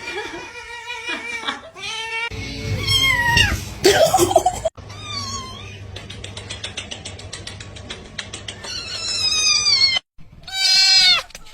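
Cats meowing in a string of short cut-together clips, the calls rising and falling in pitch, with the loudest ones near the end. In the middle a rapid train of clicks runs for a few seconds.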